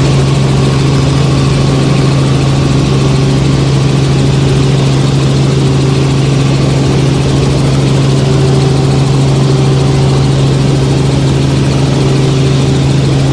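Helicopter running steadily, a loud constant drone with a strong low tone and a wash of noise, holding unchanged throughout.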